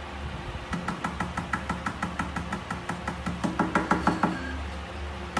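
Fingers tapping on a glass tabletop in a quick run of light taps, about six a second, louder for a moment near the end before stopping.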